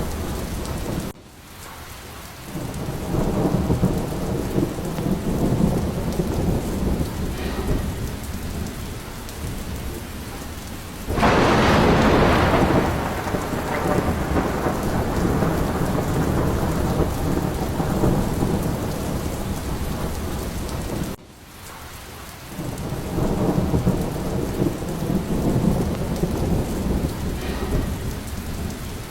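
Steady rain with thunder rolling and rumbling in repeated swells. A sudden loud thunderclap comes about 11 seconds in and dies away slowly. The sound drops off abruptly twice, about a second in and about 21 seconds in.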